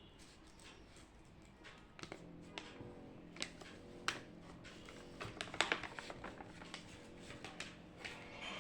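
Scattered light clicks and taps of desk work, starting about two seconds in and busiest around the middle, over faint steady tones.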